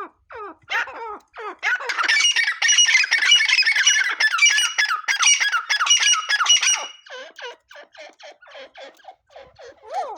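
Grey francolin calling: a fast run of repeated, high, sweeping notes that turns loud and dense about two seconds in, then carries on quieter and sparser for the last few seconds.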